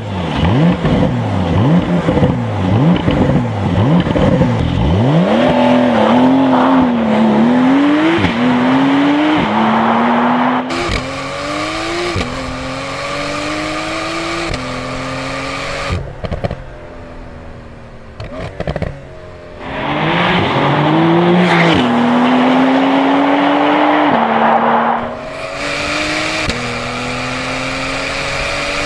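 Porsche 992 Carrera S twin-turbo flat-six through a QuickSilver aftermarket exhaust, accelerating hard through several gear changes: the pitch climbs and drops back at each upshift. It lifts off and quietens for a few seconds in the middle, then pulls hard again.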